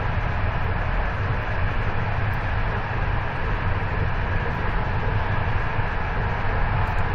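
Steady rumble of a moving passenger train heard from inside the carriage: the wheels running on the rails, with a deep low drone under an even hiss.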